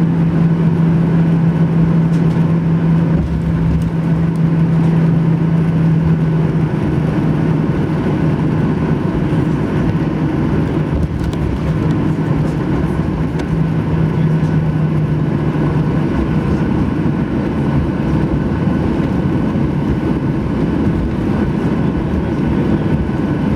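Steady jet airliner cabin noise inside a Boeing 737-800: engine and air-conditioning rumble. A steady low hum fades out about two-thirds of the way through.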